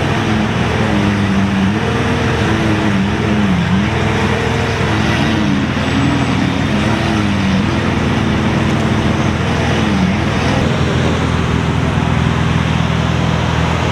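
Car engines running steadily in a low hum, with voices wavering over it for the first ten seconds or so.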